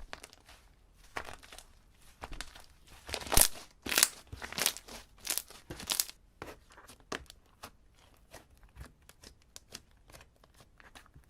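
Slime being squeezed and stretched by hand, giving a run of irregular sticky crackles and pops, thickest and loudest in the middle and thinning out near the end.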